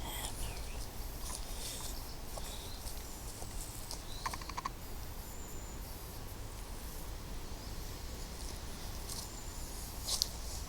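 Footsteps on a woodland path under a low steady rumble on the microphone, with faint bird calls and a short rapid bird trill about four and a half seconds in.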